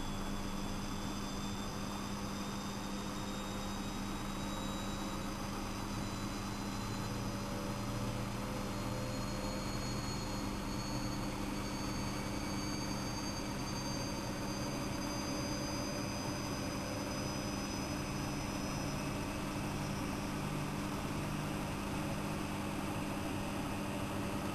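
Siemens Siwamat 6143 washing machine running, its brushed motor and drum making a steady hum and rushing noise, with a faint high whine that rises slowly in pitch through most of the stretch.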